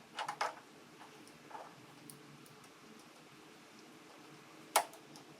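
A few light metallic clicks and taps from hand work on the tractor's carburetor and choke linkage: a quick cluster right at the start, a faint tap, then one sharp click near the end.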